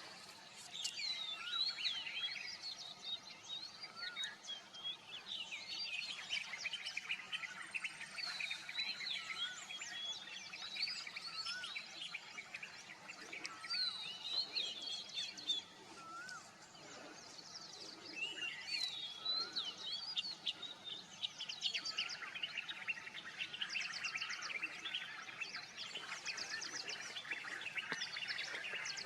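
Several birds calling and singing together: many short chirps and whistled notes that bend up and down, with fast rattling trills toward the end.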